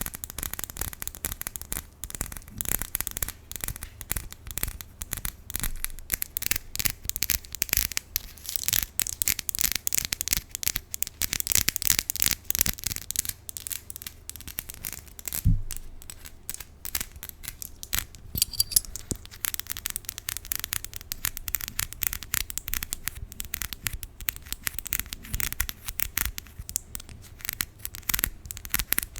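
Long acrylic nails scratching and tapping on a key close to the microphone: a rapid, unbroken run of small scrapes and clicks, with one low thump about fifteen seconds in.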